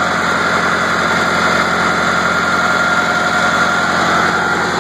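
Ford tractor engine running steadily, with a steady high whine over the engine note.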